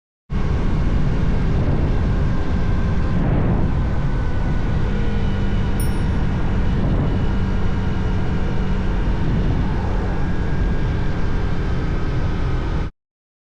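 Motorcycle on the move: engine running steadily under heavy wind and road rush. It starts abruptly and cuts off abruptly, with a brief high beep about six seconds in.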